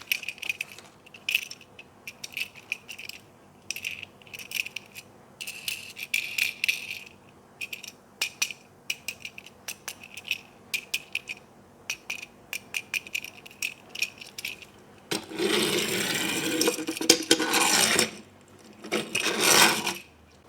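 Plastic toy pieces and packaging being handled: a run of light clicks, ticks and rattles, then two louder stretches of rustling near the end, the first about three seconds long and the second about a second.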